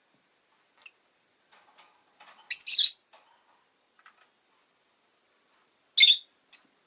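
Rosy-faced lovebird giving sharp, high-pitched chirps: a longer double call about two and a half seconds in and another short call near the end, with faint small chirps and rustles between.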